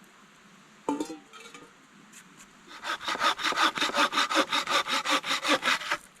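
Hand saw cutting through wood in quick, even back-and-forth strokes for about three seconds, preceded by a single sharp knock about a second in.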